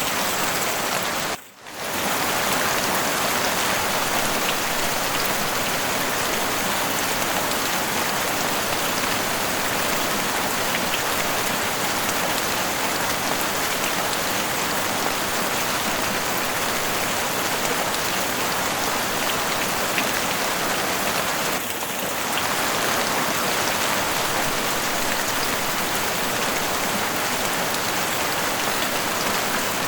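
Heavy rain pattering steadily on a house roof, a dense even hiss of drops. About a second and a half in, the sound briefly cuts out for a split second, then resumes.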